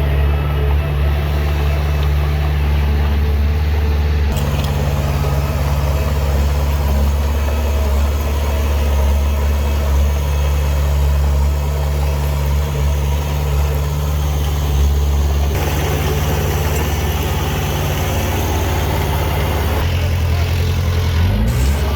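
Heavy earthmoving machine's diesel engine running steadily under work, its note shifting a couple of times, then briefly revving up with a rising pitch near the end.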